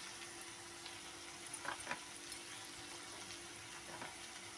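Sliced onions and chopped garlic frying in oil in a kadhai, a faint steady sizzle, with a couple of light clicks about two seconds in.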